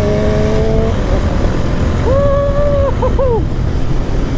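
Royal Enfield Interceptor 650 parallel-twin engine running under way with an aftermarket Motowings exhaust, mixed with heavy wind noise; its note rises as it accelerates in the first second. About two seconds in, a held tone sounds for about a second, followed by two short blips.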